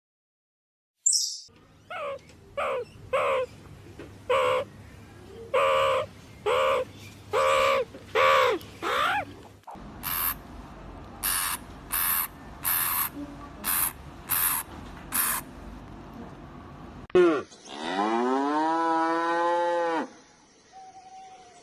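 Animal calls in three separate runs: first a series of short pitched calls, some bending in pitch, then a series of short shrill high-pitched calls, and near the end one long drawn-out call lasting about three seconds.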